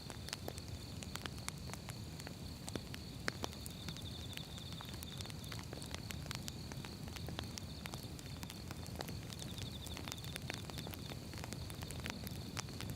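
Wood fire burning: irregular sharp crackles and snaps of firewood over a steady low rumble of the flames.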